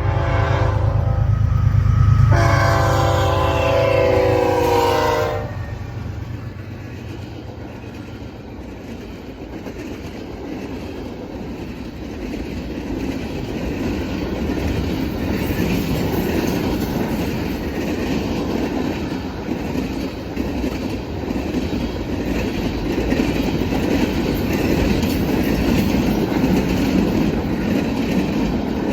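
Norfolk Southern diesel locomotive sounding its horn for the grade crossing, two blasts ending about five seconds in, over the heavy rumble of the engine passing. Then the freight cars of a manifest train roll by, a steady wheel-on-rail clatter that grows louder.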